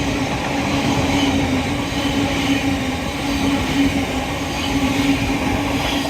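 Train passing close by: a loud rumble of wheels on rail with a steady hum running underneath.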